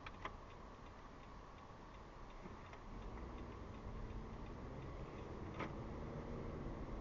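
Car turn-signal indicator ticking steadily, about two or three clicks a second, over low engine and road rumble in the cabin. Two sharper clicks stand out, one just after the start and one about five and a half seconds in.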